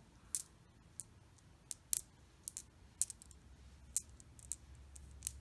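Handmade glazed porcelain beads clicking lightly against one another as they are turned over in the hand: about a dozen faint, irregular sharp ticks.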